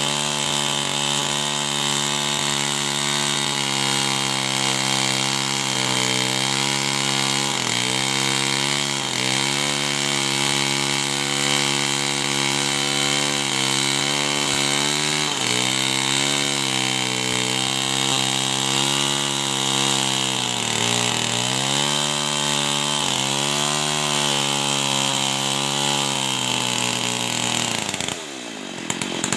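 Two-stroke chainsaw running at high speed, its engine note dipping briefly several times as the chain bites into wood. Near the end the pitch falls sharply and it goes quieter for a moment.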